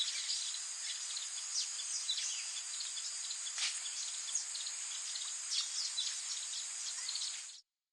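Wild birds chirping, with many short high calls and quick down-sweeping notes, over a steady high insect drone. The sound cuts off abruptly near the end.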